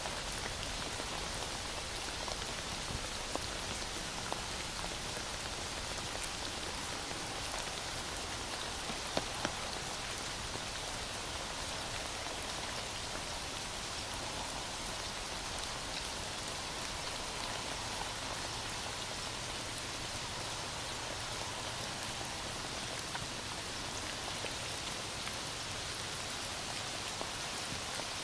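Heavy rain falling steadily, an even hiss with a few brief taps of drops.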